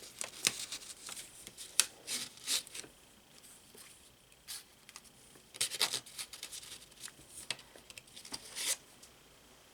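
Paper and card stock rustling and sliding as little ephemera cards are handled in and out of a journal's paper pockets, in two spells of rustling with a quieter stretch between.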